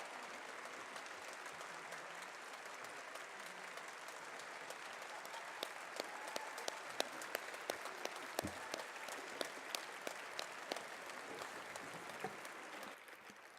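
Audience applauding, thinning in the second half to scattered individual claps and dying away near the end.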